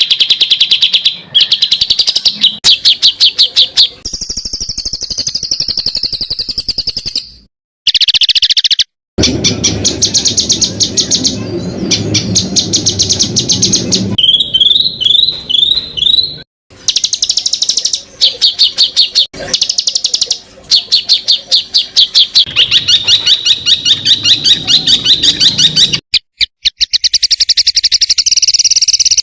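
A masteran songbird-tutor recording: a songbird's rapid, high trills of sharp repeated notes, the fast burst song called 'tembakan'. The runs are spliced together with abrupt cuts, and about halfway there is a short series of rising, sweeping whistled notes.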